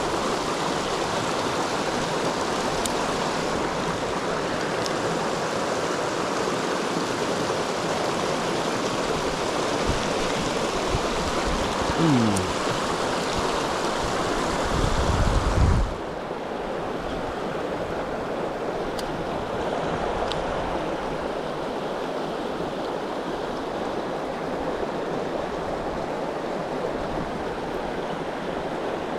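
Mountain stream water rushing steadily over rocks. About halfway through, a brief low rumble comes just before the rushing drops abruptly and turns softer and duller.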